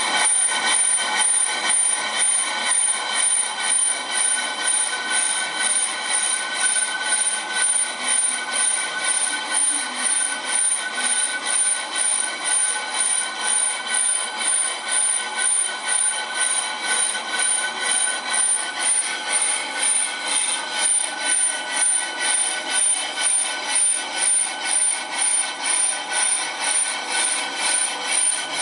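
AMMCO brake lathe running and cutting, a steady metallic scraping with a high ringing tone that pulses in an even rhythm, a few times a second.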